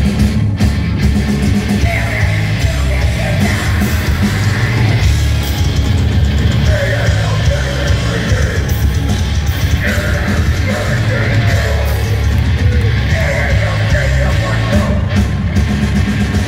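Live heavy metal band playing loud, with distorted guitars, bass and drums under shouted, screamed vocals.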